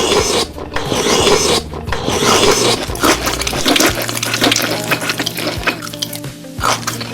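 Close-miked chewing and crunching of food, a dense stream of rasping, crackling mouth noises.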